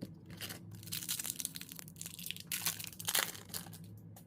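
Foil wrapper of a hockey card pack being torn open and crumpled, in several crinkling bursts.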